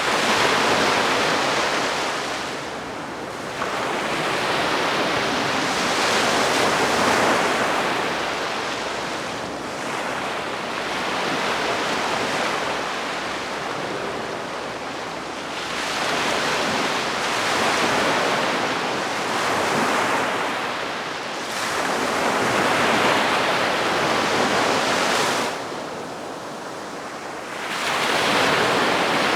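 Calm sea waves washing onto the shore, the wash swelling and easing every few seconds.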